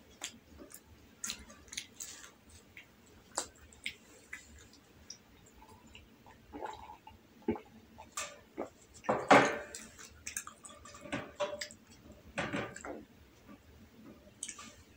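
Close-miked eating sounds: soft chewing of rolled omelette with many short mouth clicks and smacks. A little past the middle come the loudest sounds, swallowing and sipping from a cup.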